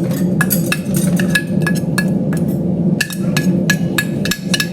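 A metal spoon clinking and scraping against a pan or plate in rapid, uneven taps, several a second, over a steady low hum.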